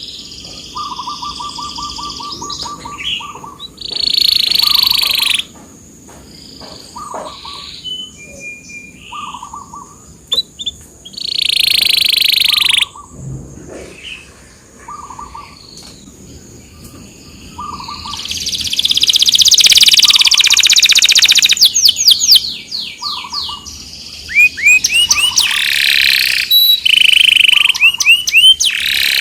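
Domestic canary singing a long, varied song of trills, rolls and rapid sweeping notes, with a loud rolling phrase held for a few seconds about two-thirds of the way through. A short, lower note repeats about every second and a half underneath.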